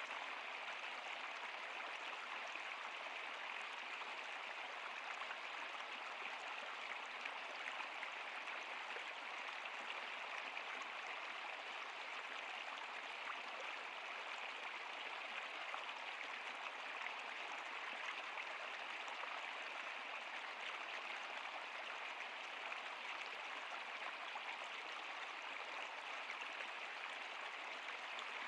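Stream water flowing steadily, an even, unbroken rush with fine splashy detail.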